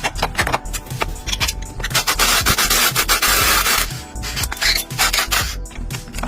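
Sanding, with rasping rubbing strokes and one longer stretch of steady hiss about two seconds in.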